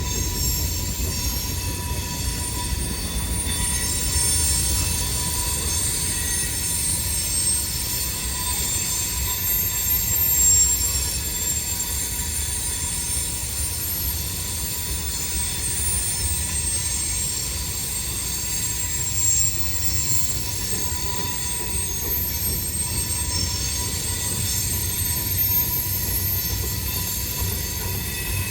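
CSX freight train rolling past, its wheels squealing in several high, steady tones over a low rumble of the cars.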